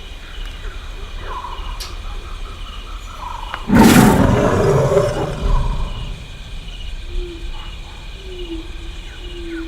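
Pet parrots chirping softly, with one loud, harsh squawk about four seconds in.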